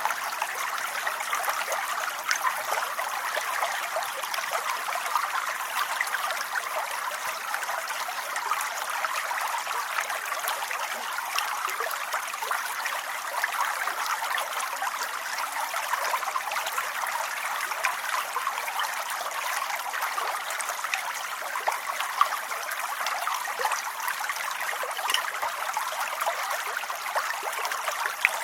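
Steady rain: an even hiss of falling water, thick with many small drop ticks, unchanging in level.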